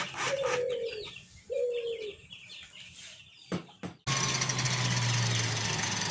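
A power tool's rapid rattle dies away, then two short bird calls sound about a second apart. About four seconds in, a power tool starts abruptly and runs steadily with a low hum.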